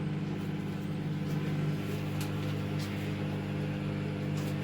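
Microwave oven running with a steady hum while a lava lamp heats inside it, sizzling faintly, with a few small ticks.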